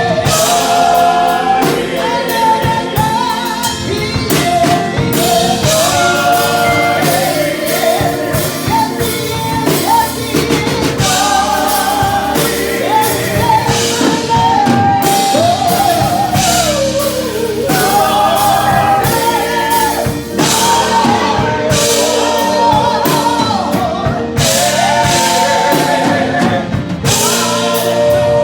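A woman singing a gospel song with a live band, her voice sliding and ornamenting through long held notes over drum kit and other instruments.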